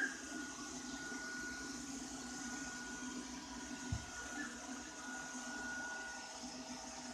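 Ropo Glass robot vacuum cleaner running: a steady low whir with a thin high whine and hiss from its motor and brushes. A single short knock about four seconds in.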